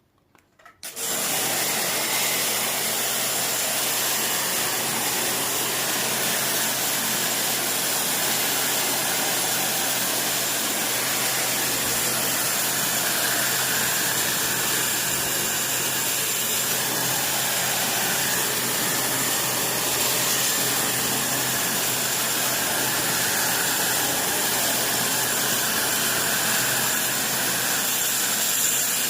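Kärcher-type electric pressure washer running steadily, a constant motor hum under an even hiss, starting about a second in.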